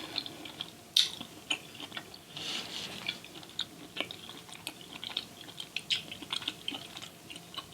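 Close-miked eating sounds: chewing, with many small wet clicks and smacks, and a sharper click about a second in and again around four seconds.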